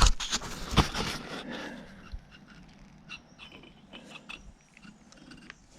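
Small machined metal pump parts being handled and test-fitted by hand: a sharp metallic knock at the start and another about a second in, then faint light clicks and clinks.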